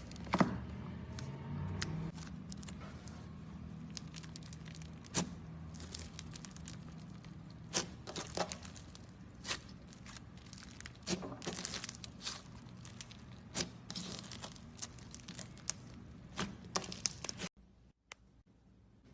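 Slime being squeezed and stretched by hand, giving irregular sharp pops and crackles over a steady low hum. The hum cuts out near the end.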